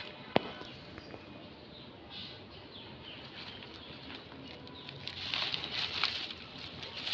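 Rustling and crinkling of old plastic litter being handled and pulled out of soil and vegetation, in several bursts in the second half. A single sharp click comes just after the start.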